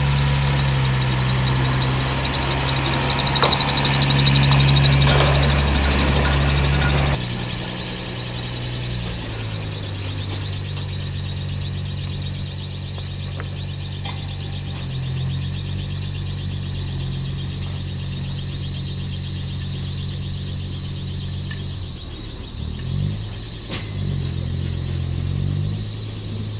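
Engine of a rail track-maintenance car running, louder for the first seven seconds or so, then dropping back to a steady idle, with a few pitch changes near the end. A high warbling tone runs over it, falling slightly in pitch at first and then holding steady.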